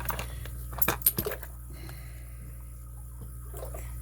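Lock picks and tension wrench working in a high-security padlock: a few small metal clicks, then a quick cluster of sharper metallic clicks about a second in, followed by faint ticking.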